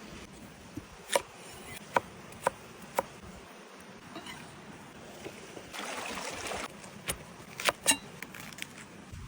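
A series of sharp knocks and taps, some with a short ringing tone, coming singly and in pairs at uneven intervals. A brief hissing rush comes about six seconds in.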